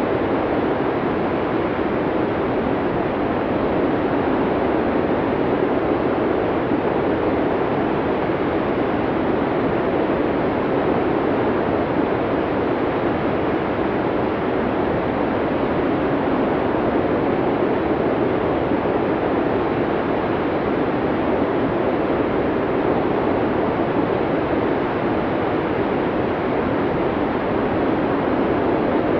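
Blizzard wind blowing as a steady, dense rush of noise, heaviest in the low middle, gently swelling and easing.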